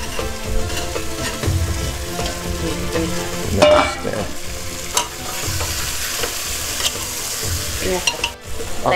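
Squash and potato pieces frying in hot oil with spices, sizzling steadily while a spoon stirs them and clicks and scrapes against the pan. The sizzle grows louder from about five seconds in, and there is one brief louder sound a little under four seconds in.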